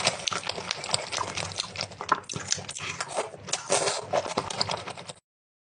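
Close-up crunchy chewing and biting of food: a dense run of crackling crunches that cuts off suddenly about five seconds in.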